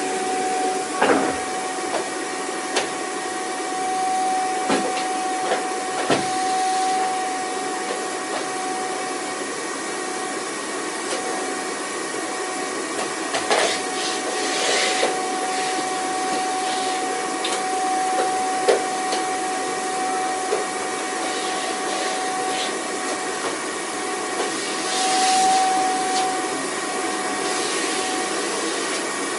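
Vacuum cleaner running steadily: a rush of air with a constant motor whine, broken by occasional short clicks and knocks.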